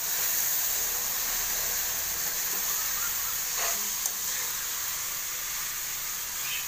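Chicken pieces sizzling steadily in hot oil with onion and tomato in a stainless steel wok, stirred with a metal spatula. There is one sharp click about four seconds in.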